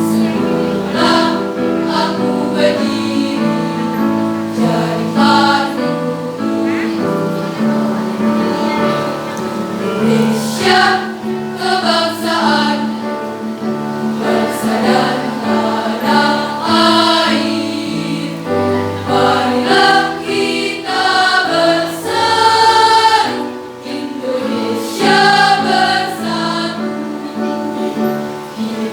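High-school choir singing a patriotic song in several parts, voices moving together from note to note over steady low held notes.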